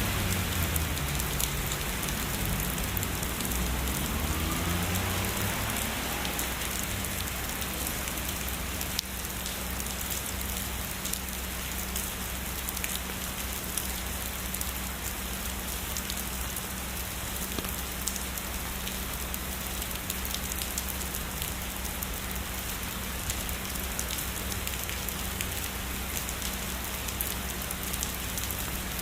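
Steady heavy rainfall, a dense even hiss with fine raindrop patter. A low rumble of distant thunder dies away over the first few seconds.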